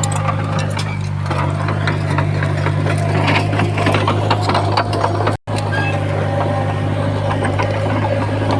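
Komatsu bulldozer's diesel engine running steadily, with rapid clanking and rattling from the steel tracks and blade. The sound cuts out for a split second about halfway through.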